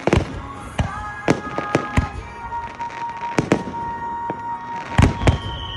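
Fireworks bursting overhead: an irregular run of sharp bangs and cracks, with the loudest pair of blasts about five seconds in.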